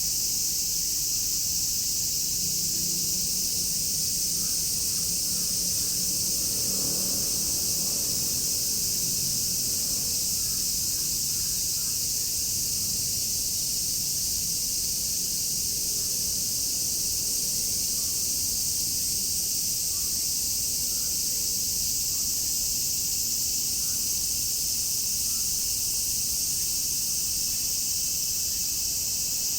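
A dense chorus of cicadas buzzing in one continuous high-pitched drone that never breaks. Around seven seconds in, a faint low rumble swells and fades beneath it.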